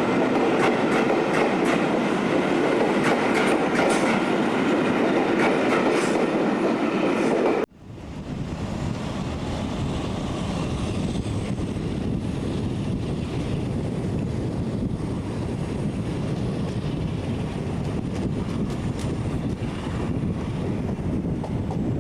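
Train running on rails with clickety-clack and scattered clicks from the wheels and track, cut off suddenly about eight seconds in. A quieter, steady low rumble follows.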